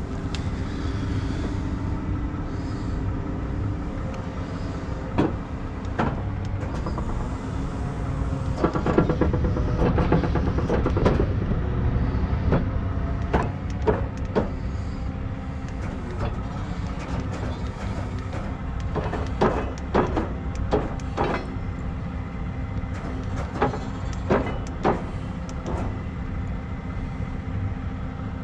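Heavy truck engine running steadily with a low rumble, overlaid with scattered sharp clanks and rattles that come in clusters, busiest about a third of the way in and again past the middle.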